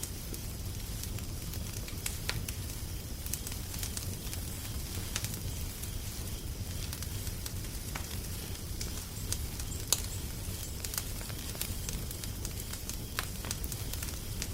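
Wood fire crackling: scattered sharp pops and snaps over a steady low rumble, one louder pop about ten seconds in.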